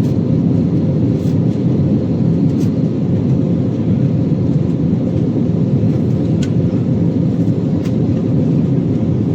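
Airbus A320 cabin noise: the steady, low noise of the jet engines and airflow, heard from inside the passenger cabin.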